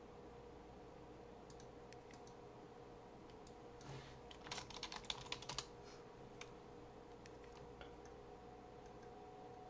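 Typing on a computer keyboard: scattered key clicks with a quick run of taps about four and a half seconds in, over a faint steady hum.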